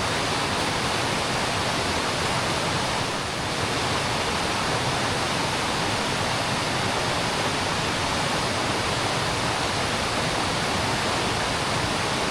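Mountain creek rushing steadily over rocks, a constant even wash of water.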